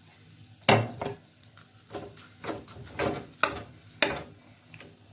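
Kitchenware clattering: a series of separate clinks and knocks of utensils against dishes or pans, as food is handled and served.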